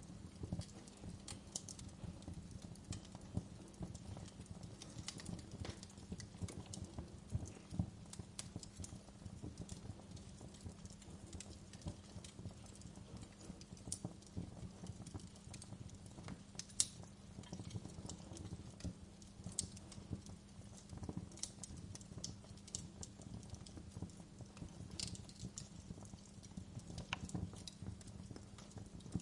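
Wood fire burning, crackling with irregular pops and snaps over a low steady rumble, with one sharper pop about seventeen seconds in.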